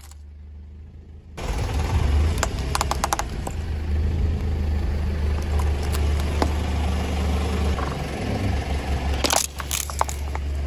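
Car engine running with a steady low rumble as the car creeps forward, while small plastic objects break under the tyre with sharp cracks and crackles: a cluster of cracks about two to three seconds in and another near the end.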